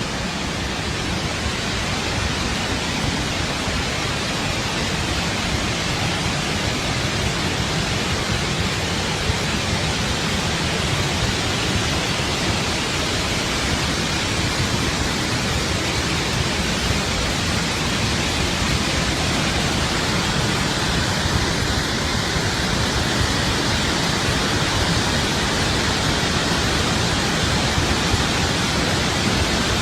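Floodwater discharging through the open spillway gates of Tarbela Dam on the Indus River: a steady, dense rush of falling water.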